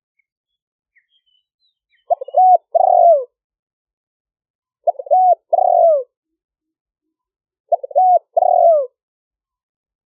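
Spotted dove cooing: three separate phrases about three seconds apart, each a short burst of quick notes followed by a longer falling coo. The calls are the kind played to lure wild spotted doves to a decoy.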